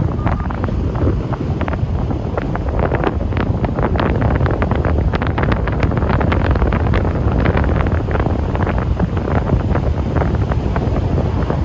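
Wind buffeting the microphone: a loud, steady low rumble with many small crackles scattered through it.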